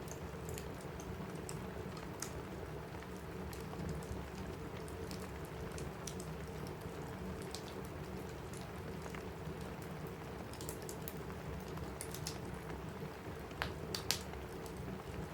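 Steady rain on a roof with a crackling wood fire over it: scattered sharp pops and snaps throughout, two louder ones near the end.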